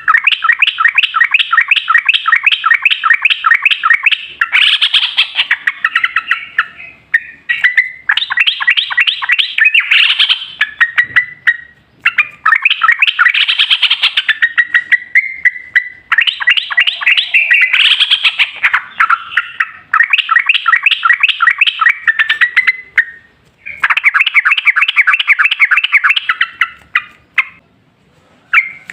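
Yellow-vented bulbul (trucukan) singing its long rolling song: rapid runs of bubbly repeated notes, about four a second, in phrases of a few seconds separated by short pauses, repeated over and over.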